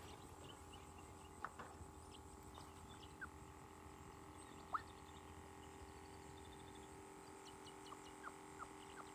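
Near silence with a few faint bird chirps: short rising notes spaced a few seconds apart, the clearest a little past halfway.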